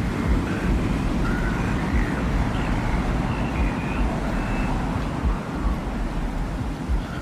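Desert wind ambience: a steady, gusting low rumble of wind, with faint short high tones drifting above it.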